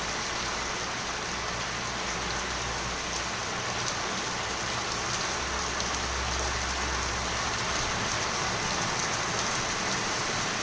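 Heavy rain pouring down, a steady, even hiss of rain on surfaces.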